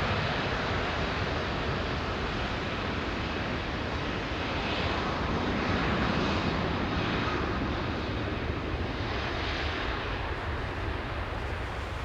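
Airbus A340-600's four Rolls-Royce Trent 500 jet engines at takeoff thrust, a steady heavy rush of jet noise that eases slightly near the end.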